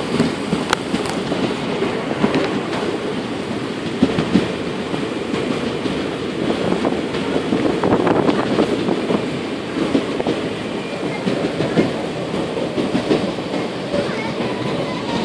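Passenger train running, heard from on board: a steady rumble of steel wheels on the rails, with scattered clicks and knocks from the track.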